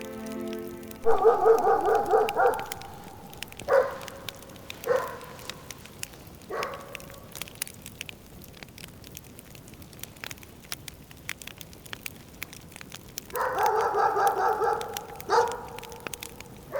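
A dog barking: a quick run of barks about a second in, then a few single barks, then another run near the end.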